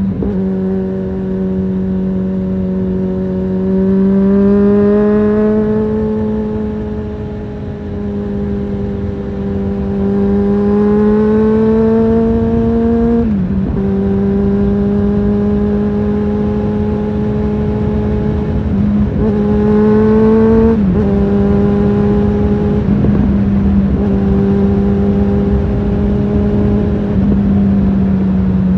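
Suzuki GSF650 Bandit's inline-four engine with an aftermarket Storm exhaust, riding along at fairly steady revs. The pitch rises gently a few times as the throttle opens, with quick dips at gear changes about halfway through and again a little later.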